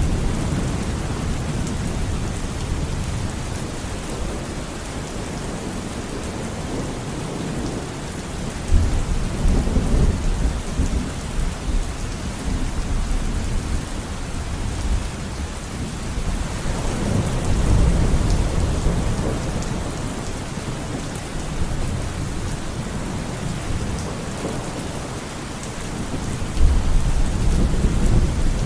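Steady heavy rain with rolling thunder: low rumbles swell in several times, one breaking in sharply about a third of the way through, another building around the middle, and a third starting abruptly near the end.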